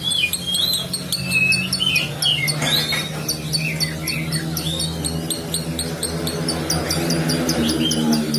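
Lovebird chattering in a long unbroken run of rapid, high, evenly repeated chirps, with lower squeaky warbling notes mixed in. This is the continuous song that bird-keepers call 'konslet'. A steady low hum runs underneath.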